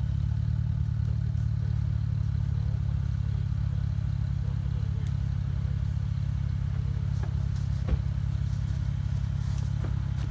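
Off-road vehicle engine idling steadily, with a single knock about eight seconds in.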